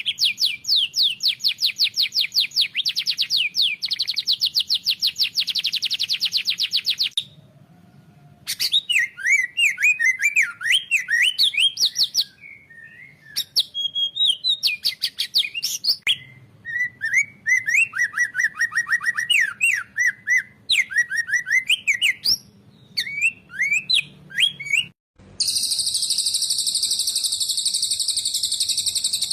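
Recorded songbird song spliced into a tutor track for training cage birds, with abrupt cuts between passages. It opens with a fast, even run of chirps for about seven seconds. After a short break come varied whistled phrases, and the last few seconds hold a dense, high continuous trill.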